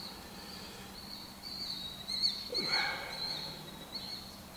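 Birds chirping, a short cluster of calls a little past two seconds in, over a steady high trill and a low hum.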